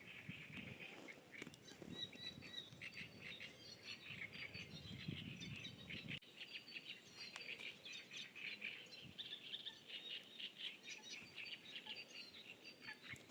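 Many small birds chirping together in a dense, continuous chorus of short high chirps.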